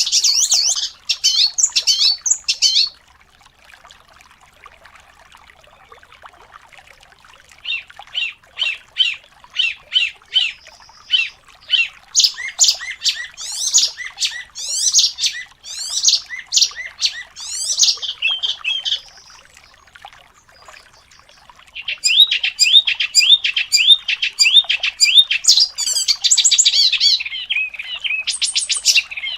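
Songbird singing fast, dense song of rapid chirps and trills, in three bursts separated by pauses of a few seconds.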